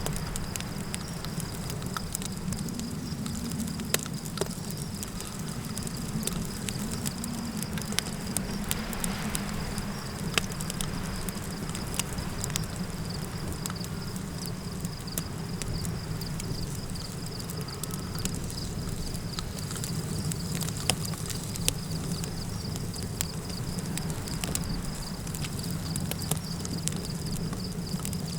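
Campfire crackling with frequent sharp pops over a low steady rumble, and a continuous high, pulsing insect trill behind it.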